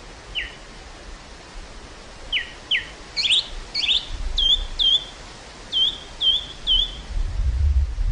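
A bird calling over the steady hiss of wind across an open field, in a run of a dozen or so short chirps, each dropping in pitch, closer together in the middle. Low rumbling of wind on the microphone comes in about halfway and grows strong near the end.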